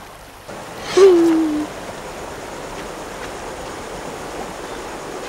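Steady rushing water of a jungle stream, starting about half a second in. About a second in, a short voice sound like a hum rises over it and falls slightly in pitch.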